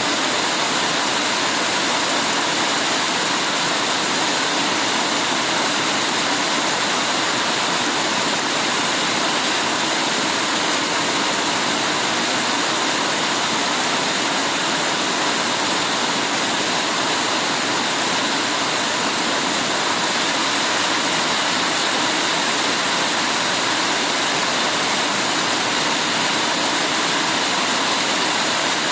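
Heavy rain falling steadily, a loud, even hiss with no breaks or single drops standing out.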